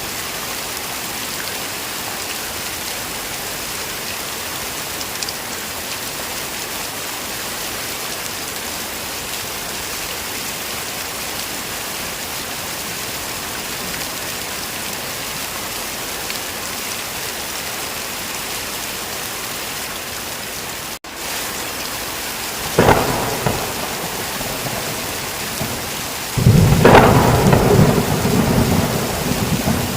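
Heavy rain falling steadily. About two-thirds of the way in there is a brief break in the sound, then a clap of thunder, and near the end a longer, louder peal of thunder rumbling low.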